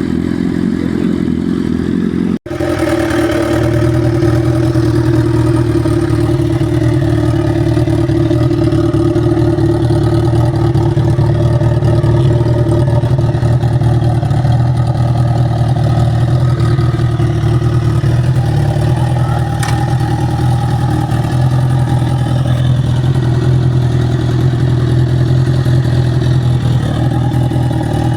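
Motorcycle engine running at a steady, even pitch with small shifts in note, with a brief sharp dropout about two and a half seconds in.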